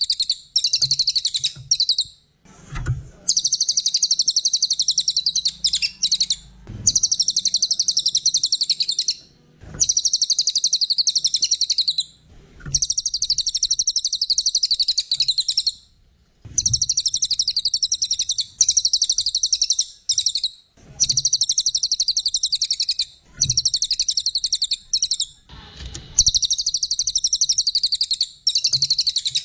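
A cililin, a small songbird, singing in long, rapid, very high trills. Each phrase lasts two to three seconds and is followed by a brief pause, over and over.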